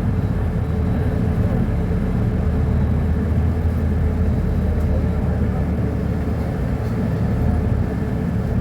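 Diesel engine of a Mercedes-Benz O-500UA articulated bus running at a steady speed, a deep even drone.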